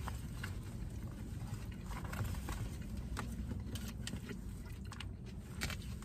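Steady low rumble of a car cabin, with scattered light clicks and rustles.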